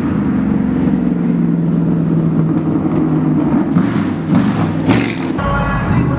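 Truck engine running at a steady speed while driving, with two short rushes of noise about four and five seconds in. The sound changes abruptly near the end to a heavy low rumble.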